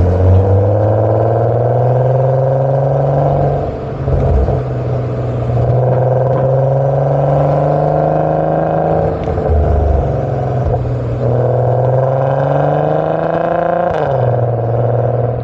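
MK5 Volkswagen Golf R32's 3.2-litre VR6 accelerating through the gears with a Magnaflow 14156 straight-through muffler in place of the resonator: three pulls that rise in pitch, each broken by an upshift. The note is deep, with a pronounced warble.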